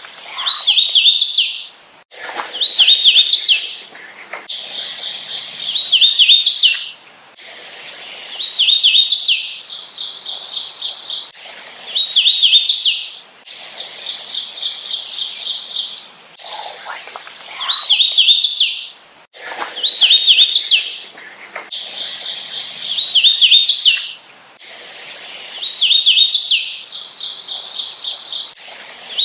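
Hooded warbler singing over and over: short songs of a few slurred whistled notes that end in a higher, emphatic phrase, about one every two to three seconds, with runs of quick even notes between songs.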